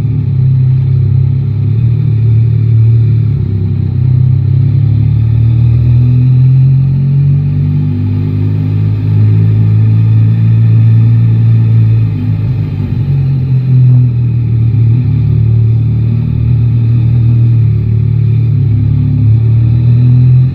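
Yamaha Tracer 9 GT's 890 cc inline-three engine running under way in city riding, its pitch shifting a little with the throttle and easing off briefly about two-thirds of the way through.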